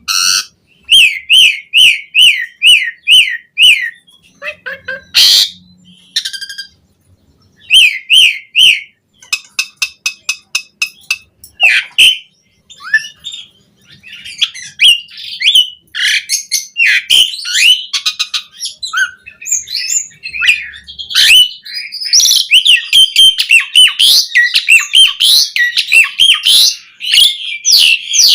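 Asian pied starling (jalak suren) singing a varied song: a run of repeated down-slurred whistles about twice a second, short rapid trills, and a denser stretch of mixed whistles and chatter near the end.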